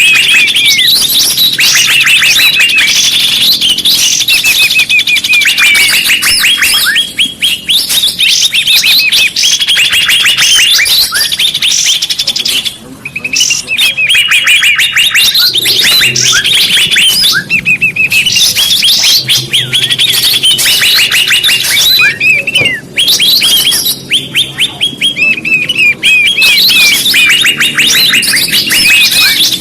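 Bird-lure (pikat) recording: a dense chorus of small birds calling, in rapid runs of high, downward-sweeping chirps that repeat almost without pause, broken by a few short gaps.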